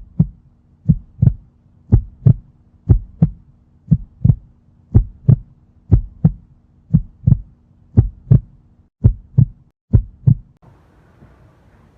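Heartbeat sound effect: paired low thumps, about one beat a second, that stop about ten and a half seconds in, leaving faint background hiss.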